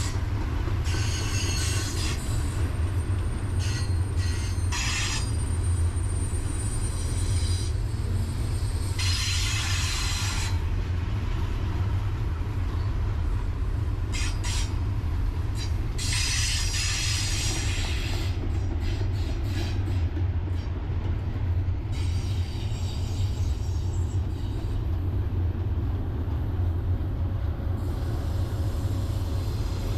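Freight train cars rolling past with a steady low rumble, and every few seconds bursts of high-pitched wheel squeal and screech that come and go, strongest in the first half.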